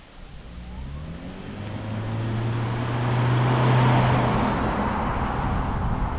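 Toyota C-HR Hybrid's 1.8-litre four-cylinder petrol engine revving up under acceleration, then holding a steady drone as the CVT keeps the revs constant. Road and wind noise swell as speed builds.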